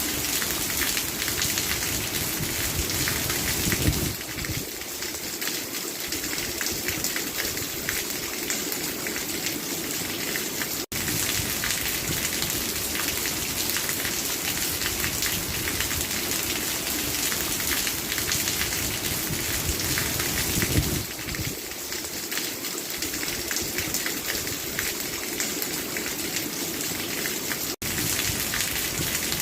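Steady heavy rain falling and pattering on a surface, with a dense even hiss of drops. It cuts out for an instant twice.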